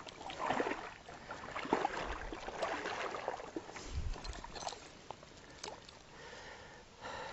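Water splashing and small clattering knocks in and around a fishing kayak, with a dull thump about four seconds in.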